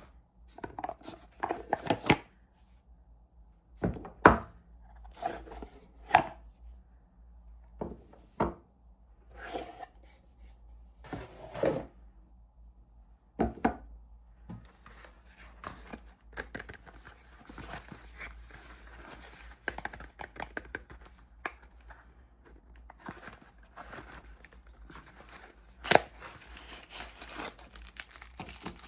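Soap packaging being torn open and crinkled by hand: separate short rips and rustles with a few sharp knocks, then denser, continuous rustling in the second half and one sharp snap near the end.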